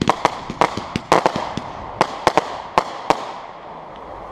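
Fireworks going off: a rapid, uneven string of sharp bangs for about three seconds, then only a fainter crackle.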